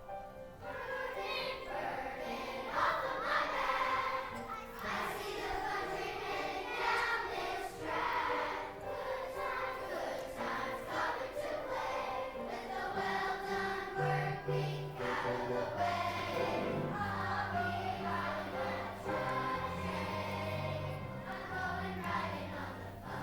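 A choir singing a song in several voices, with low accompaniment notes joining about halfway through.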